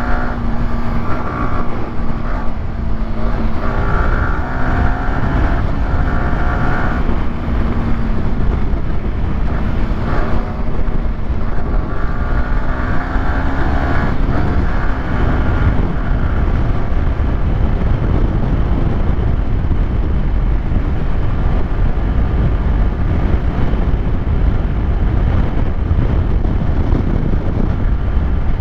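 Yamaha YZF-R125's single-cylinder four-stroke engine running at fairly steady revs under way, with a heavy rush of wind noise. The engine note holds for about the first half, then sinks under the wind.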